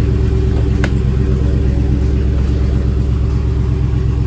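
Dodge Scat Pack's 392 HEMI V8 idling steadily on its stock mufflers, a low even rumble with no revving. A single short click sounds about a second in.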